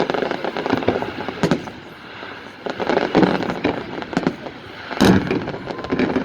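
Fireworks display bursting: a fast, irregular run of bangs over crackling, with a loud bang about five seconds in.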